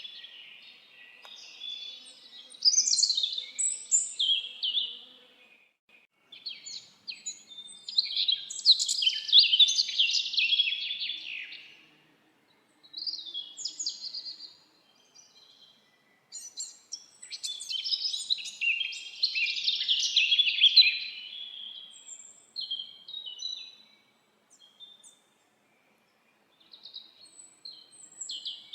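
Songbirds singing in the forest: long, rapid, high-pitched twittering phrases a few seconds each, separated by short pauses, with a brief lull near the end.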